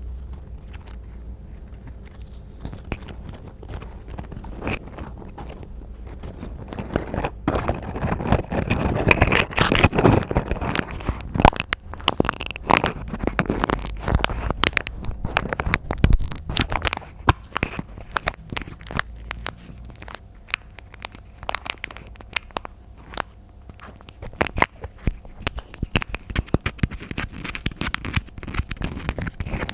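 Close-miked ASMR scratching and crackling on trigger objects, with many quick sharp taps. The scratching is densest and loudest in the middle; taps and scrapes carry on more sparsely toward the end.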